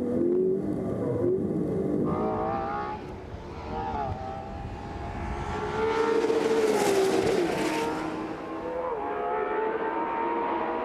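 Ferrari 812 Competizione's naturally aspirated 6.5-litre V12 running under way, its pitch rising and falling with the throttle, loudest about six to eight seconds in.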